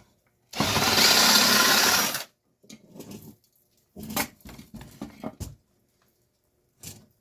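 An electric drill runs steadily for about a second and a half, drilling out a rivet in the opener's housing. It is followed by a series of short metal knocks and clatters as the parts are worked loose.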